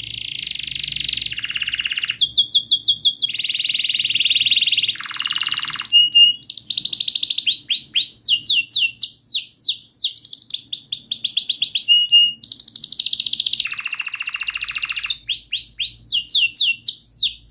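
Domestic canary singing a long unbroken song, rapid rolling trills alternating with quick runs of repeated chirps and short whistled notes.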